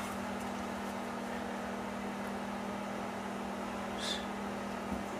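Steady low electrical hum from a background machine, with a brief soft scrape about four seconds in.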